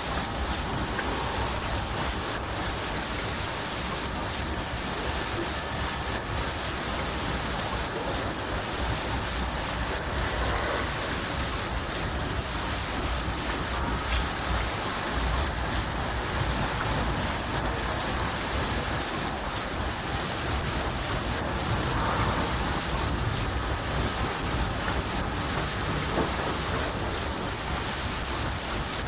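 A cricket chirping steadily at about three chirps a second, with one brief pause near the end, over the hiss of steady rain and a low rumble of thunder.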